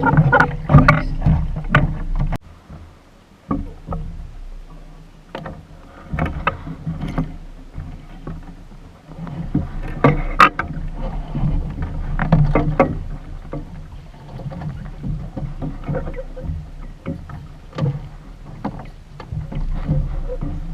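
Water splashing and slapping against a Sunfish sailboat's hull, with irregular knocks and a steady low rumble underneath.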